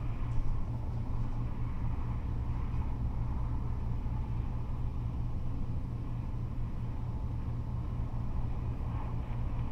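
Freeway traffic of cars and trucks, a steady low rumble with no single vehicle standing out.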